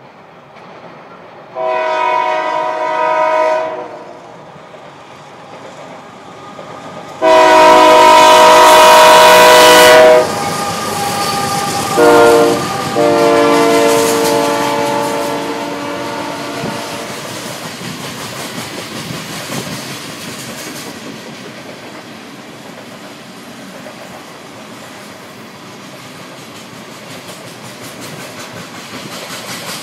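The multi-tone air horn of a Union Pacific GE AC44CW locomotive sounds long, long, short, long, the standard grade-crossing signal; the second blast is the loudest. The train's coal cars then roll steadily past, their wheels clattering over the rail joints.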